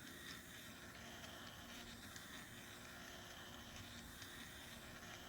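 Small DIY fan's electric motor running with a faint, steady whir.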